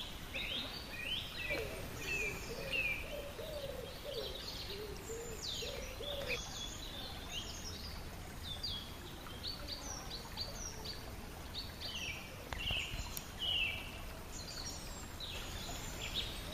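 Small birds chirping and singing, with many short repeated calls. A lower wavering sound, separate from the chirps, runs through the first few seconds.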